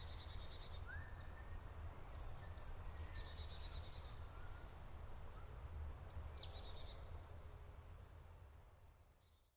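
Birds chirping, with quick downward-sweeping calls and short pulsed trills, over a faint steady low rumble; the whole fades out near the end.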